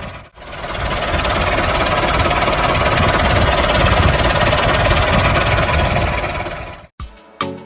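Motor of a handmade mini MF385 model tractor running steadily, with a brief dip just after the start. It cuts off about a second before the end, and a few notes of music follow.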